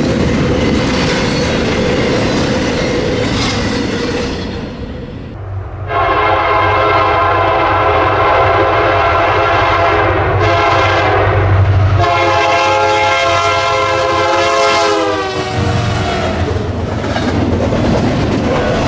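Freight train rolling by on jointed rail, then a diesel locomotive's multi-note air horn sounds a long chord for about ten seconds. The horn weakens briefly midway, swells again and drops in pitch near the end as the locomotive passes. Wheel and rail noise carries on afterwards.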